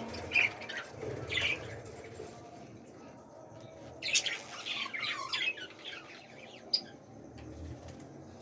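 Budgerigars in a breeding colony giving short squawks and chirps: two separate calls in the first second or so, then a quick run of chattering chirps about halfway through, with one sharp tick a little after.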